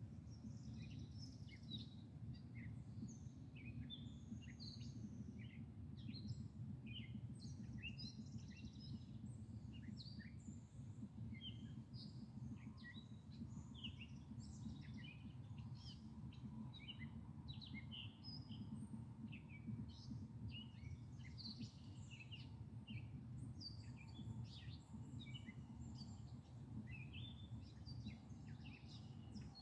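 Several songbirds chirping and calling in quick, short notes throughout, over a steady low background rumble.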